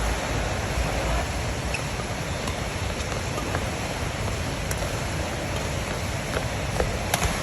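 Steady hiss of heavy rain, with a few short, sharp clicks scattered through it and two close together near the end.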